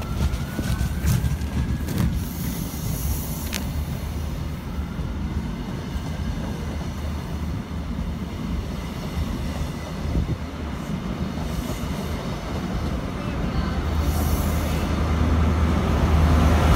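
An InterCity 125 High Speed Train's Mark 3 coaches roll past with a steady rumble and a few sharp clicks. Near the end the rear Class 43 diesel power car comes by and its engine hum grows louder.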